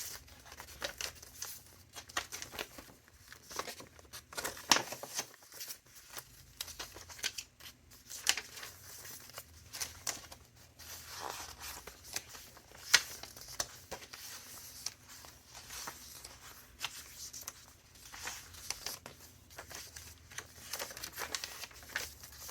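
Paper pages of a large, chunky junk journal rustling and crinkling as they are turned and handled, in irregular short bursts with two sharper, louder rustles about five and thirteen seconds in.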